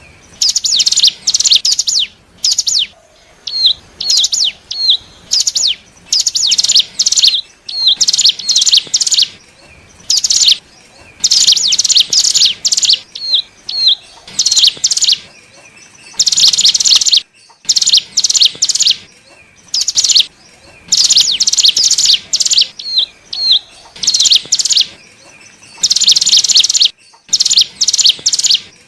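Ciblek gunung (cigun), a prinia, singing loudly: rapid high trilled phrases of about half a second to a second, repeated with short pauses, with single short high notes that fall in pitch slotted between them. It is the song used as a lure call to draw in wild cigun.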